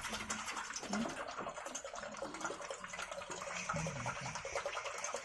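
Steady running water, pouring like a tap or spring-water pipe, with faint voices in the background.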